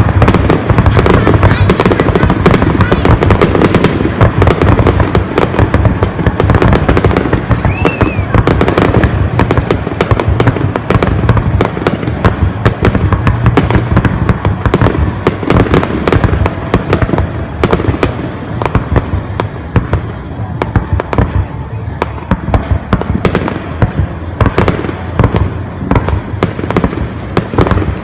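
Fireworks display: a dense, continuous barrage of bangs and crackling bursts, thinning slightly in the last third. A short whistle sounds about eight seconds in.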